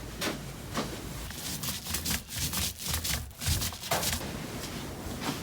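Paint roller rolling back and forth over a wall, a repeated rubbing stroke about twice a second.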